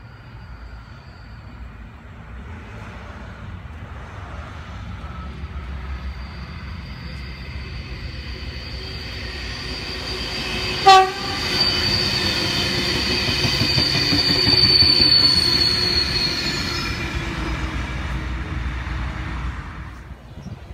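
Sydney Trains V-set double-deck electric intercity train approaching and passing, its rumble building over several seconds and easing off near the end. A single short horn blast about halfway through is the loudest moment, followed by a thin high squeal for several seconds as the cars go by.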